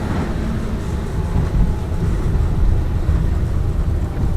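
Lada Vesta Cross driving, heard from inside the cabin: a steady low rumble of road and engine noise.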